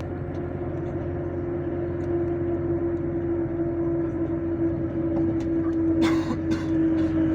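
Passenger train running noise heard from inside the carriage: a steady low rumble with a constant droning hum. About six seconds in there is a brief hiss or rattle.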